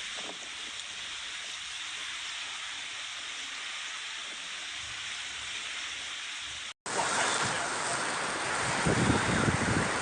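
Steady rushing noise of storm water: heavy rain and running floodwater. It cuts out for an instant about seven seconds in, then comes back louder and fuller.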